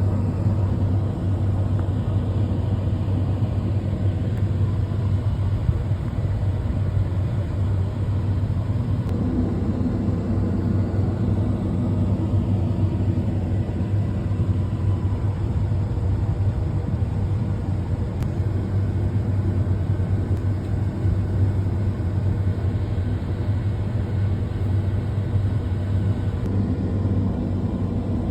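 Fendt tractor's diesel engine running steadily, a constant low drone that holds an even pitch and level throughout.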